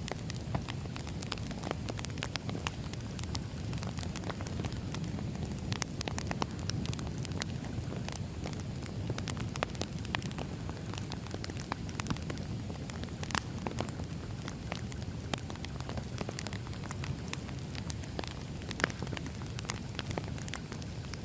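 Burning firewood crackling: frequent irregular sharp pops and snaps over a low, steady rumble of the fire.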